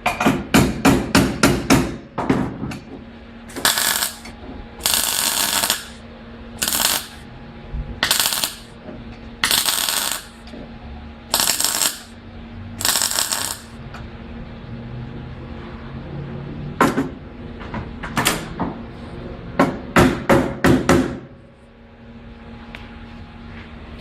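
Rapid hammer blows on metal, about four a second, then a string of short crackling bursts of welding, one tack after another, then another quick run of hammer blows.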